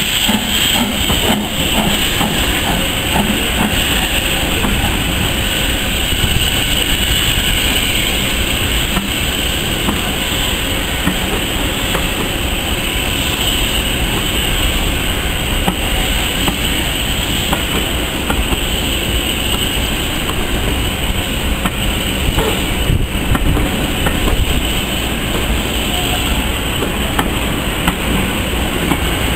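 Coaches of a steam-hauled passenger train rolling steadily past on the track, with a continuous rolling noise and light clicks from the wheels passing over the rail joints.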